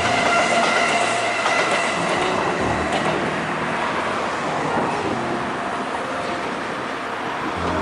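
A train passing on the tracks, with steady rail and wheel noise and some high tones that fade over the first few seconds.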